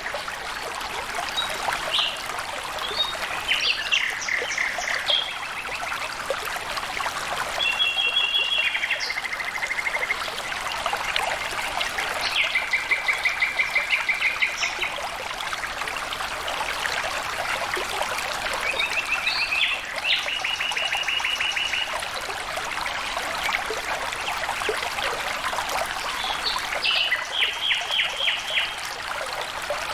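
Steady flowing water of a small stream, with a bird singing fast high trills every few seconds, the longest lasting about two seconds.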